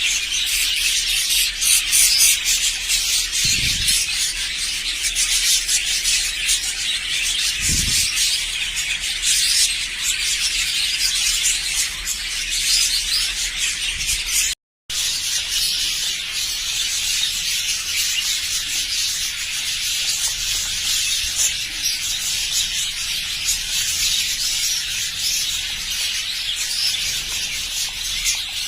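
A flock of budgerigars chattering and chirping, a dense high-pitched warble that runs on with a brief break about halfway through. Two soft low thumps sound a few seconds in.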